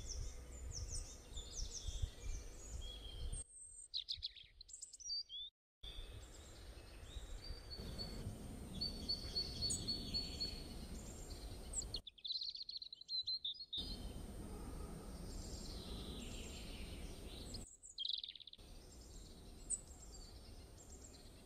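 Birds chirping and calling over a steady low background rumble, which drops out abruptly three times.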